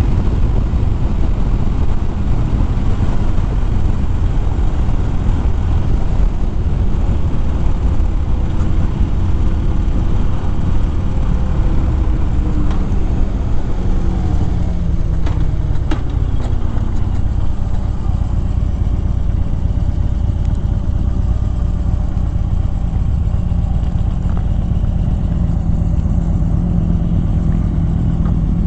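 Harley-Davidson Fat Bob V-twin engine running at speed under heavy wind rumble on the rider's microphone; about halfway through, the engine note drops as the bike slows, then holds steady.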